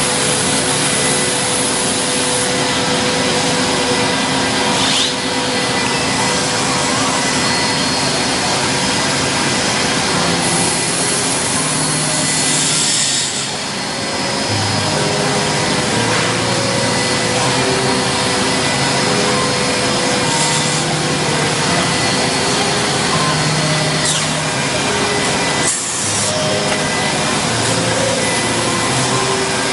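CNC wood router machining wood: a steady, loud spindle and cutting noise, with short tones from the axis drives that shift pitch every second or so as the head moves.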